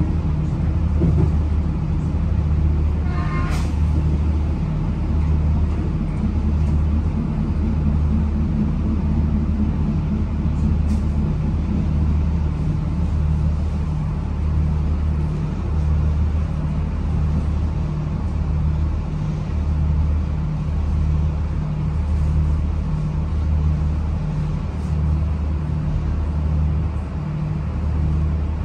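Steady low running rumble inside a diesel commuter train carriage in motion, with a low throb that repeats a little slower than once a second. A short rising tone sounds about three seconds in.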